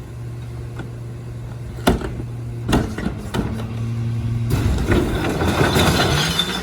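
Rear-loader garbage truck running on compressed natural gas, with two sharp knocks about two and three seconds in. About halfway through, a louder, rougher mechanical sound sets in and the engine note rises.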